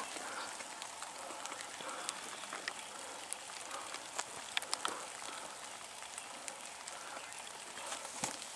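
Light rain falling, a faint steady hiss with scattered drops ticking close by.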